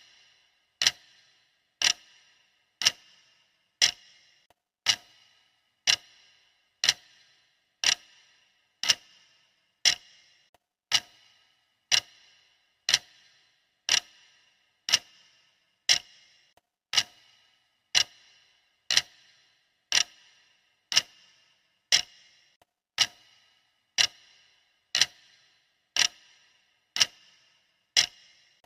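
Clock ticking sound of a countdown timer: a sharp tick once a second, each with a brief bright ring, steady and even.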